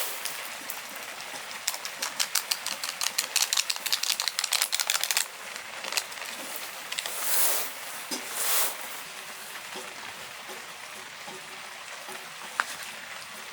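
Steady hiss of heavy rain, with a run of rapid, irregular clicks for a few seconds about two seconds in, two brief swells in the middle, and a single sharp click near the end.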